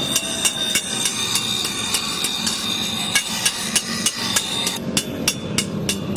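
Blacksmith's hammer striking metal on an anvil in a quick run of blows, with a metallic ring lingering through the first half.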